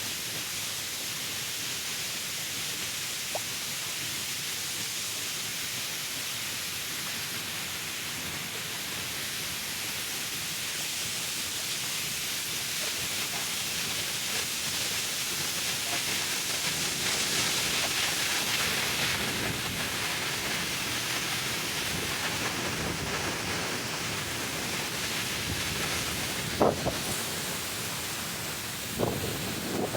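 Waterfall rushing steadily, heard from close to the falling water, with a couple of sharp clicks near the end.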